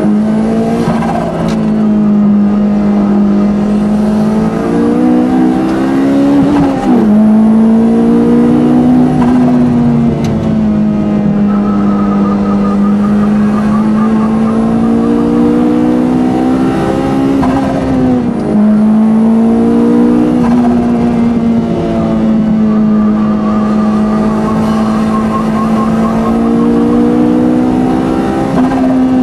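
Lotus Elise Type R's four-cylinder engine heard from inside the car on track, held hard at high revs. Its note climbs slowly and then drops sharply a handful of times, as at gear changes or lifts into corners.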